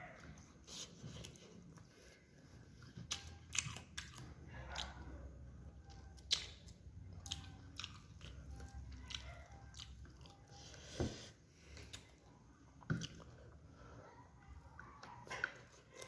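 A person chewing and eating a rice meal, with irregular short mouth clicks and crunches.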